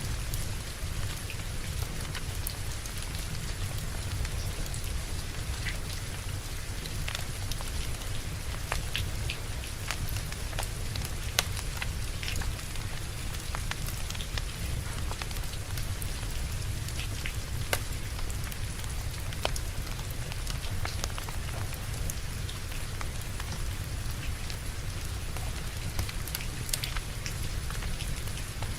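Steady rain with a low rumble underneath, mixed with scattered sharp crackles and pops of a burning wood fire; a louder pop comes about 11 seconds in and another about 18 seconds in.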